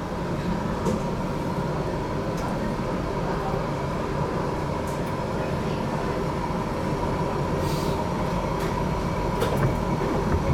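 HTM GTL8 tram in motion, heard from inside the car: a steady running rumble with a constant whine and scattered light clicks and rattles.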